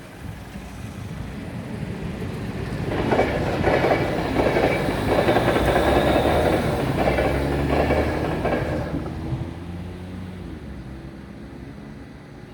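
NS DDZ double-deck electric intercity train passing over the level crossing. It swells in about three seconds in, with wheels clacking over rail joints through about six loud seconds, then fades with a falling tone as it runs away.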